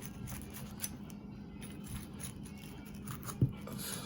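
Light clicks and taps of a kitchen utensil against a plate while a cut wedge of quesadilla is lifted out, with one louder knock about three and a half seconds in.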